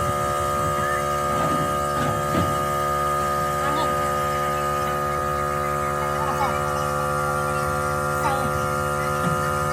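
A steady hum made of several fixed tones, unchanging throughout, with a few faint short chirps and light ticks over it.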